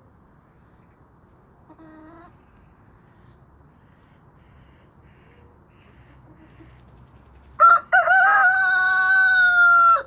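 Rooster crowing once near the end: a short opening note, then a long held note that cuts off sharply. A faint short call from a chicken comes about two seconds in.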